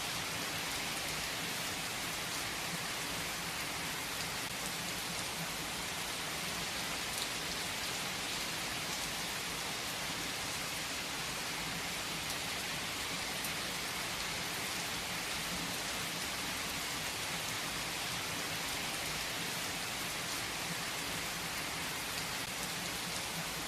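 Steady rain falling on a surface, an even hiss with the odd sharper drop.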